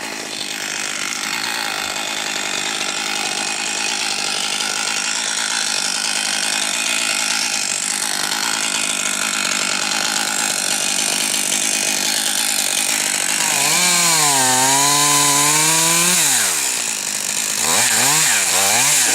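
Two-stroke chainsaw running steadily. About two-thirds of the way in, a nearer saw gets louder and higher, its pitch wavering, then drops off and is revved up and down twice near the end.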